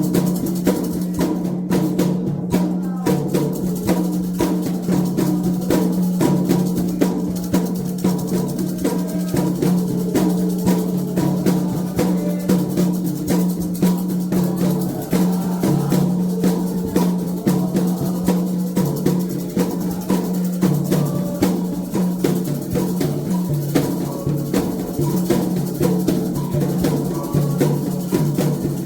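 Candomblé atabaque drums playing a steady, fast toque, with dense continuous strokes.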